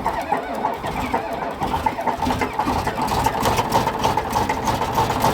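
Komatsu D65E bulldozer's diesel engine cranking over on its starter during a cold start after sitting two years: a steady whine with fast rattling clicks.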